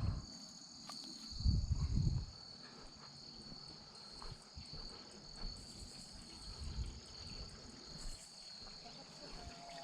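Crickets trilling steadily in an evening insect chorus, with a brief low rumble about a second and a half in.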